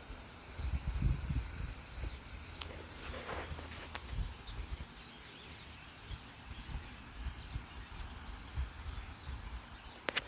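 A large flock of birds calling together in the trees, a steady dense chatter, with low rumbles on the microphone strongest in the first couple of seconds and a few sharp clicks.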